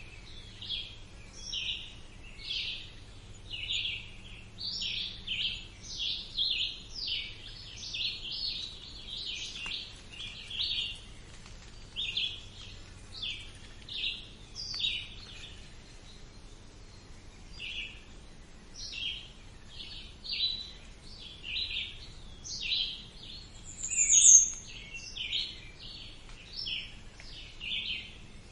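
Songbirds chirping: a steady run of short, high chirps about two a second, with one louder, higher call falling in pitch near the end.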